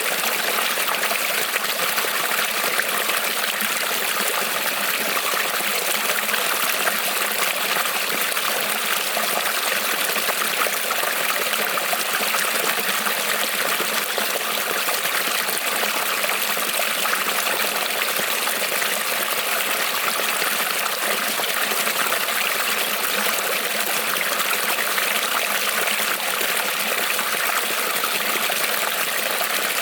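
Small creek rippling and trickling over stones, a steady, unbroken water sound.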